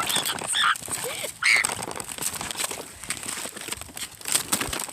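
A voice giving three short high-pitched cries in the first second and a half, over continuous rustling and knocking noises.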